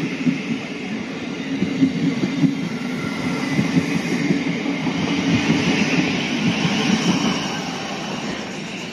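South Western Railway Class 455 electric multiple unit running along the platform, a steady rumble of its wheels on the rails with a rolling clatter; it is loudest about halfway through and fades toward the end.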